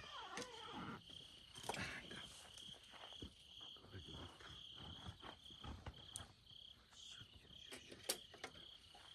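Insects chirping in a steady, pulsing high trill, with a few scattered clicks and rustles from close by.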